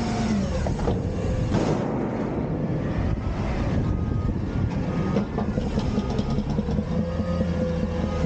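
Autocar front-loader garbage truck's diesel engine running under load, with hydraulic whine rising and falling in pitch and scattered metal clanks and rattles.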